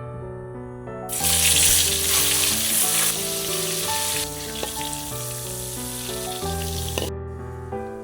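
Food sizzling as it fries in hot oil in a pan. The sizzle starts suddenly about a second in, is loudest for the first two seconds, and stops abruptly about a second before the end, over soft piano music.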